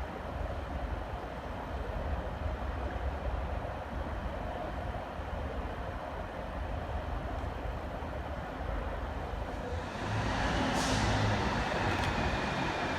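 Class 153 single-car diesel multiple unit's underfloor Cummins diesel engine running steadily, then getting louder about ten seconds in as the unit pulls away, with a short falling hiss of air just after.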